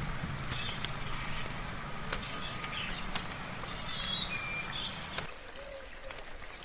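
Soft rain falling with scattered sharp drips, and birds giving short high chirps now and then. A low hum underneath cuts off suddenly about five seconds in.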